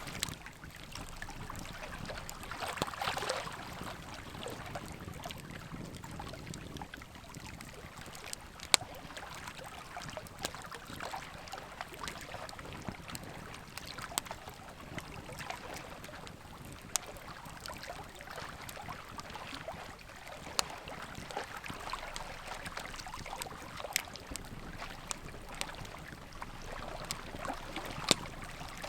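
Wood fire crackling: a steady soft hiss and flutter of burning, with sharp pops every second or two, the loudest about nine seconds in and near the end.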